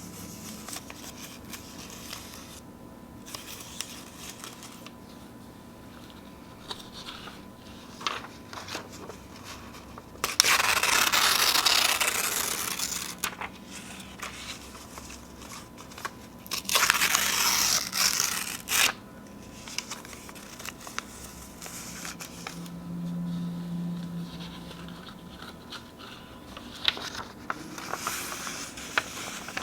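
Sheets of paper being torn by hand: two long rips, one about a third of the way in and another just past the middle. Between them come quieter rustling and crinkling of the paper.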